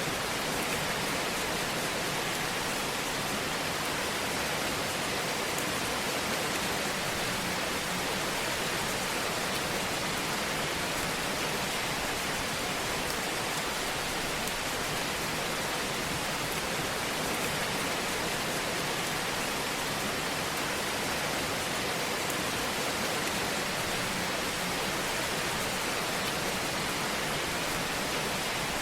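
Fire burning in a fireplace: a steady, even hiss with a few faint crackles.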